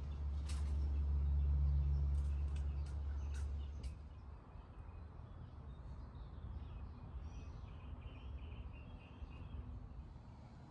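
A low rumble with a few sharp clicks for the first four seconds, then small birds chirping in quick short calls for the rest.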